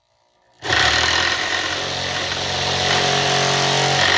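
Power tool cutting into a metal push bar. It starts about half a second in, runs steadily with a loud, harsh cutting noise, and begins to wind down at the very end.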